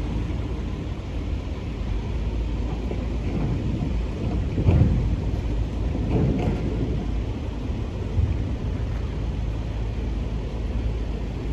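Freight train gondola cars rolling slowly past: a steady low rumble of steel wheels on rail, with a few clanks and thumps, the loudest about halfway through.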